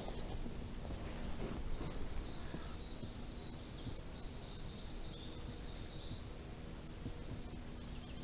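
Quiet outdoor background noise. A small bird twitters in rapid high chirps for about four seconds in the middle.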